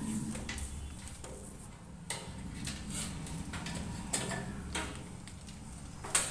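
Hands working on washing machine parts: scattered light clicks and knocks of handled plastic and metal pieces, with a sharper knock about six seconds in, over a low steady rumble.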